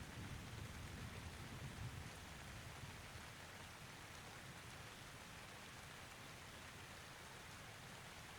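Steady, faint rain hiss, with the tail of a low thunder rumble dying away over the first two or three seconds.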